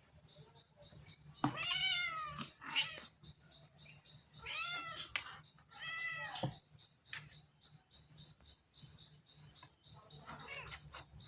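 Cat meowing: two long meows that rise then fall in pitch, about a second and a half and four and a half seconds in, and a fainter meow near the end, with short high chirps in between.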